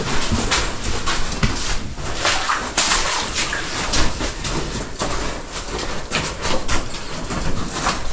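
Irregular footsteps and scuffs on cave rock, about two to three a second, with sharper knocks now and then.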